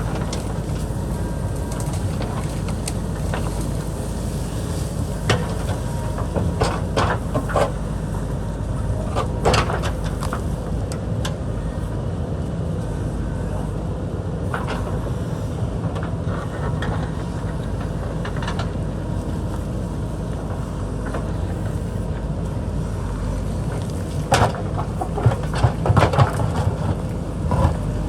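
JCB backhoe loader's diesel engine running steadily while it digs, with scattered knocks and clanks of the machine working rock and dirt, a cluster of them near the end.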